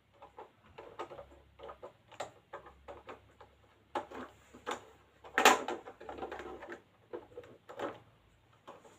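Handling of a plastic toy garbage truck: irregular small clicks, taps and rattles, with one sharper, louder knock about five and a half seconds in.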